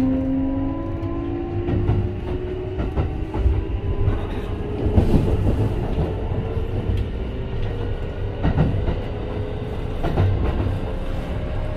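Kintetsu 5211-series express train running, heard on board: the wheels clatter over the rail joints under a motor whine that drifts slowly in pitch.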